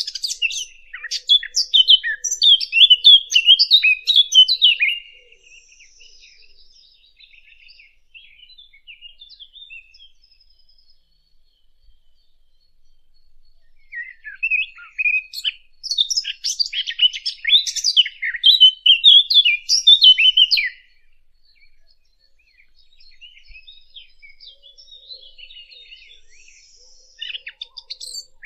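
Small songbird known in Arabic as the fig bird ('usfour al-tin) singing a rapid, high-pitched warbling song. Two bursts of song about five to seven seconds long are separated by a stretch of sparse faint notes, and a third burst begins near the end.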